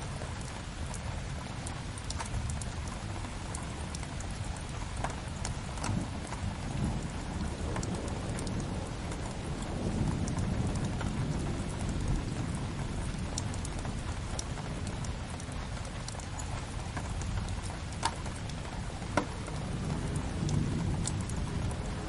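Steady rain mixed with a crackling wood fire, with sharp single pops from the fire every few seconds, loudest near the end. Low rumbles swell twice, about halfway through and near the end.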